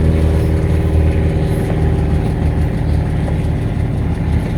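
An engine idling steadily, a low, even hum that holds the same pitch throughout.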